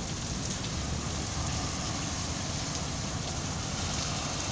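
Heavy rain falling steadily in a downpour, a continuous even hiss.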